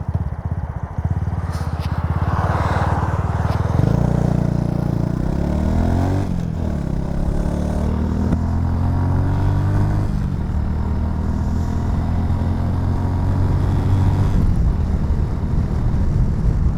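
Honda Super Cub C125's single-cylinder engine pulling away and accelerating. Its pitch climbs from about four seconds in, drops sharply at upshifts around six and eight seconds, rises again, then holds fairly steady at cruising speed.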